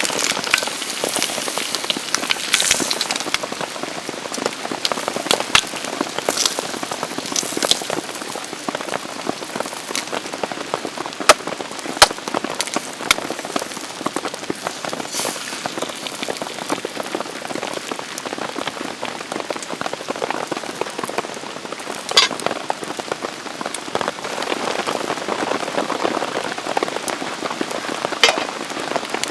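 Steady rain with many close drops ticking on a surface, and a few louder sharp ticks among them.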